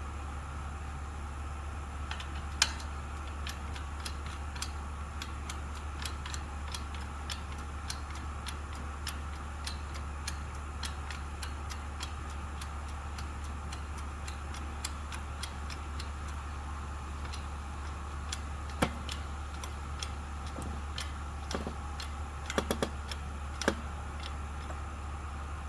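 Homemade manual hydraulic wood splitter working a large log: a running series of small clicks and ticks, with a few sharper snaps, one a few seconds in and a cluster near the end, over a steady low hum.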